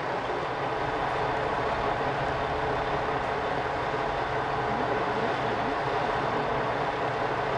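Diesel railcar running with a steady engine and rail noise.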